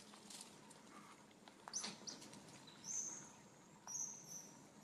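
Small birds chirping: a few short, high-pitched chirps, one falling chirp near the start and two more held chirps about three and four seconds in, over faint outdoor ambience.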